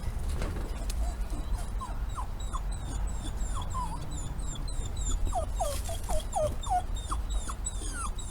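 A dog whining: a long run of short, high whimpers, each falling in pitch, coming faster in the second half.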